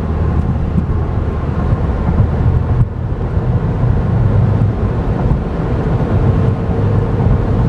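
Steady road and wind noise of a 2011 Chevy Volt being driven, a low rumble of tyres and air heard inside the cabin.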